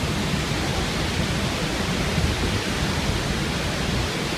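Niagara Falls' water rushing: a steady, even noise, heaviest in the low end.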